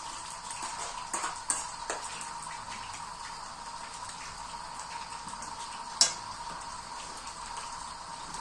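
Cotlet patties frying in oil with a steady sizzle, with a few light utensil clicks between one and two seconds in and one sharp knock against the pan about six seconds in.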